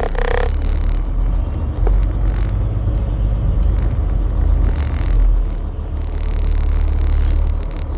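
Semi truck driving, a steady low engine and road rumble, with a few short bursts of hiss over it.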